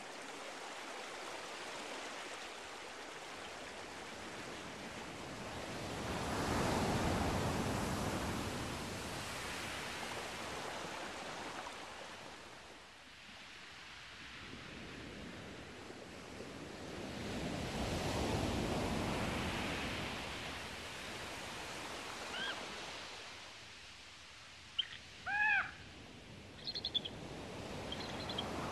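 Outdoor rushing noise that swells and fades twice, then, about three-quarters of the way in, a few short arching bird calls, each rising and falling, some in quick pairs.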